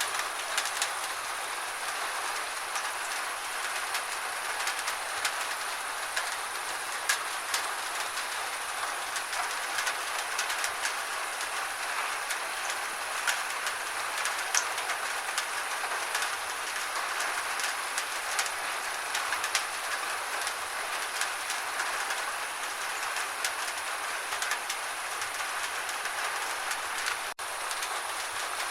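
Gentle rain falling steadily, an even hiss scattered with many separate drop ticks. The sound drops out for an instant near the end.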